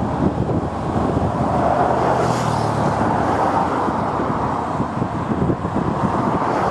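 Steady road traffic noise mixed with gusty wind buffeting the microphone, with a car passing about two and a half seconds in.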